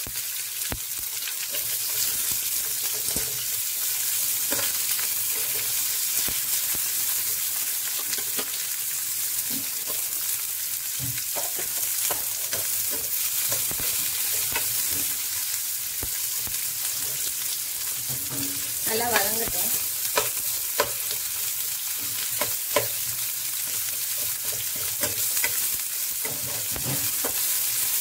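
Onions and fennel seeds sizzling in hot oil in a nonstick pan, with a steady frying hiss. A slotted spatula stirs them, scraping and knocking against the pan, with the sharpest knocks a little past the middle.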